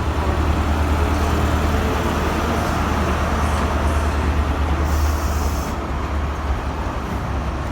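Diesel engine of a ScotRail Class 43 HST power car running with a steady low rumble, easing slightly about six seconds in. A short high hiss comes about five seconds in.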